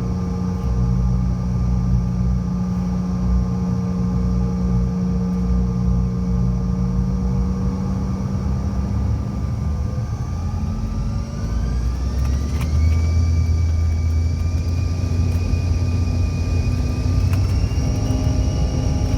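CRJ700's General Electric CF34 turbofan engines heard from inside the cabin, spooling up: a whine climbs steeply about halfway through, levels off, then steps up once more near the end over a steady low rumble that grows louder as thrust builds, typical of power being set for the takeoff roll.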